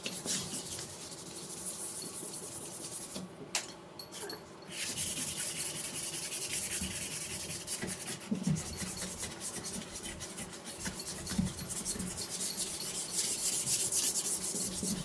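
Sandpaper worked by hand over a fiberglass golf cart body in quick back-and-forth strokes, with a brief pause about three to four seconds in.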